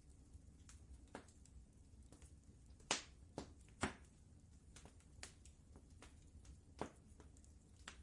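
Wood fire crackling in a fireplace: irregular sharp pops and snaps, the loudest two about three and four seconds in, over a faint steady low rumble.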